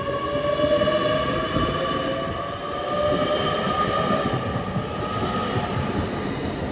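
Great Western Railway Class 800 IET (Intercity Express Train) pulling away, its traction drive giving a whine of several tones that rises slowly in pitch as the train picks up speed, over a steady low rumble.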